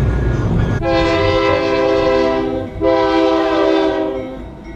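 Train horn sounding two long blasts of a multi-note chord, the second trailing off, over a low rumble.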